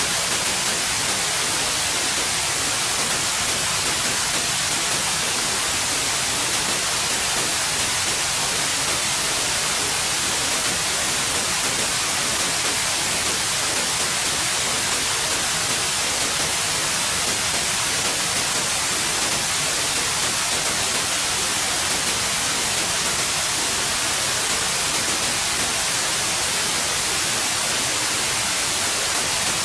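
Steady white noise: an even, unchanging hiss, brightest in the highs.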